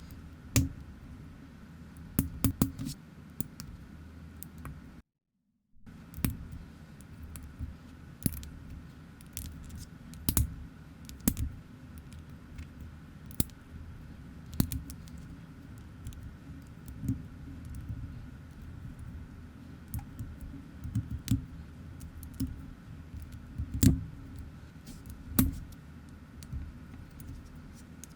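Plastic building bricks being handled and pressed together, in a run of irregular sharp clicks and small rattles. The sound cuts out completely for about half a second near the start.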